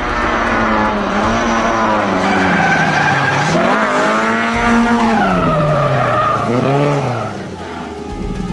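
A car's engine revving up and down with tyres squealing, as in a skid or drift. The pitch dips and climbs several times, then the sound eases off about seven seconds in.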